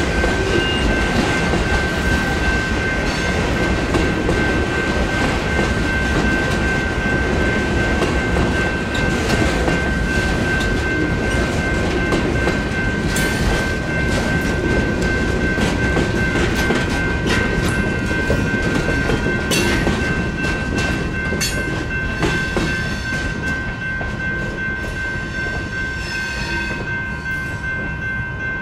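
Union Pacific freight cars rolling through a railroad grade crossing, the wheels clacking and clanking over the rails, while the crossing's GS Type 2 electronic bell rings steadily. The rolling noise fades over the last few seconds as the end of the train clears the crossing, and the bell keeps ringing.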